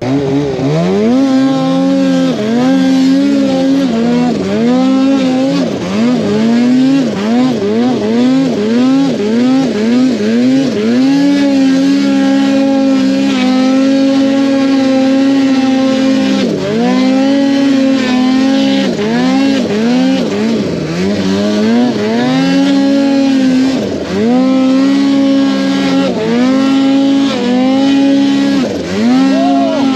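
Snowmobile engine revving up and down over and over, with a few longer stretches held at high revs.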